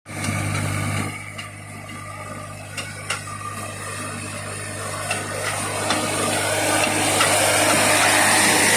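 Swaraj 960 FE tractor's diesel engine running steadily, with a few sharp knocks and clanks in the middle, the sound growing louder and rougher over the last few seconds.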